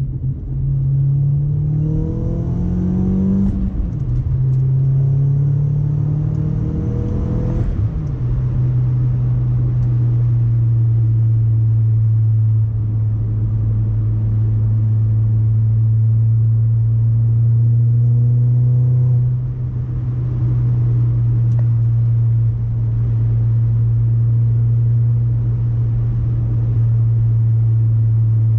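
Audi A4 B6 1.8T turbocharged four-cylinder with a resonator-delete ECS catback exhaust, pulling hard through two upshifts in the first eight seconds: the pitch rises, drops and rises again. It then settles into a steady, loud exhaust drone at cruising revs.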